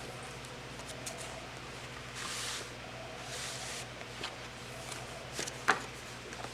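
Paper handling as pages of a thick handmade paper journal are turned: two short rustling swishes, then a few soft taps and a sharp tap near the end, over a steady low hum.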